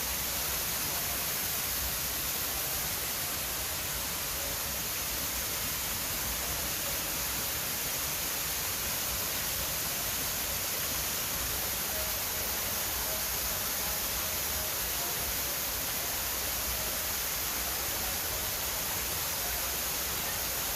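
Steady, even hiss, strongest in the treble, with no distinct events.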